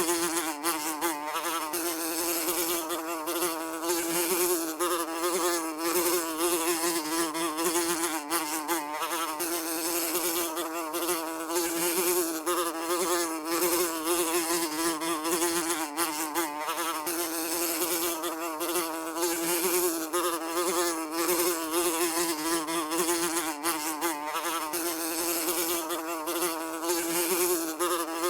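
Housefly buzzing continuously in flight, a steady droning hum whose pitch wavers slightly as it flies about.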